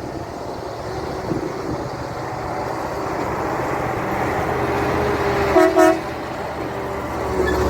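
A vehicle horn gives two short toots over steady engine and road noise that slowly grows louder.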